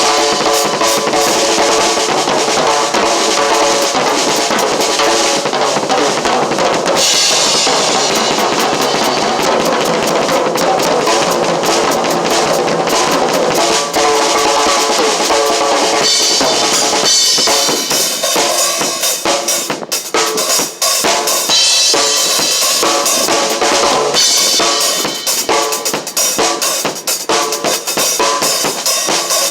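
Drum kit played continuously in a busy pattern of kick drum, snare and cymbals, with brief breaks about 14 seconds in and again near 20 seconds.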